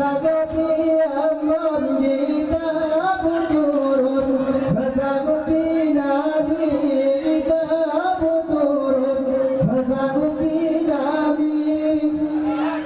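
Saman dance group of men singing a chant in unison, one long high melody held and slowly bending in pitch. Under it run many quick hand claps and body slaps.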